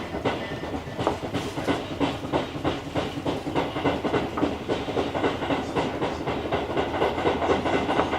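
Tobu Nikko Line train running on the rails, its wheels clacking over rail joints in a quick, uneven run of clicks over a steady rumble.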